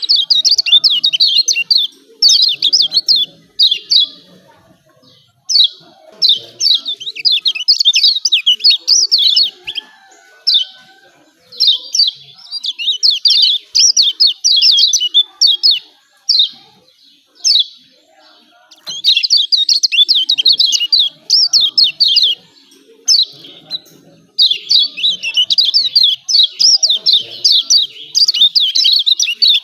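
Kecial kuning white-eye giving rapid, scratchy 'ciak ciak' chatter calls in dense bursts of one to three seconds with short pauses between. This is the agitated call used as a pancingan, a lure recording to provoke a quiet kecial into calling.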